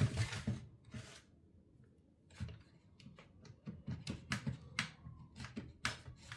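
Light clicks and knocks of a chainsaw's plastic and metal parts being handled as its engine is worked at during teardown. There is a sharp knock at the start, then from about two and a half seconds in a run of quick small clicks.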